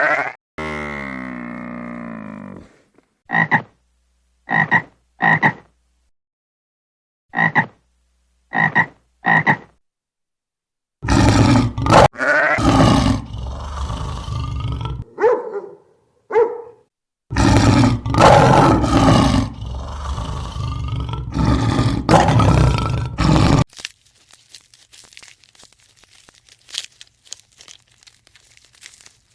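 Frogs croaking: short single croaks in two groups of three, then a long loud stretch of overlapping calls, fading to faint noise near the end.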